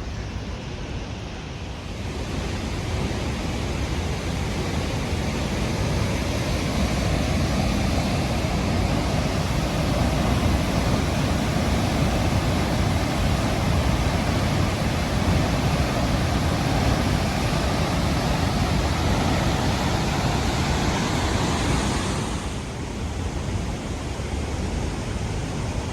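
Rushing water from the river and waterfall: a steady, loud roar that swells over the first few seconds, then drops off abruptly near the end and carries on more quietly.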